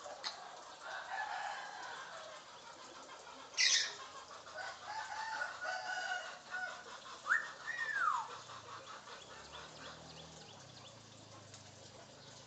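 African grey parrot calling: a short sharp shriek about a third of the way in, a run of chattering calls, and a whistle that rises and then falls about two-thirds of the way through.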